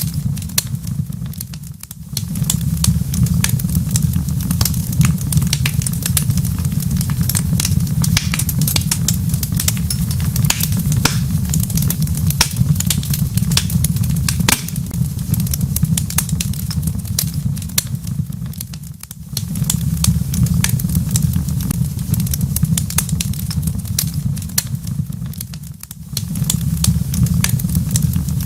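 Wood fire crackling in a fireplace: a steady stream of sharp pops and crackles over a constant low rumble. The rumble briefly drops away three times.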